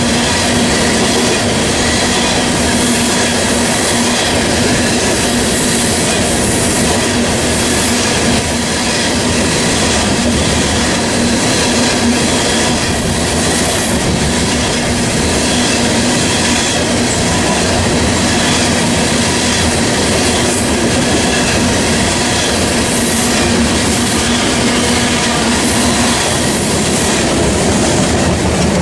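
Norfolk Southern freight train rolling past, its wheels clicking over the rail joints in a steady, loud run of clickety-clack.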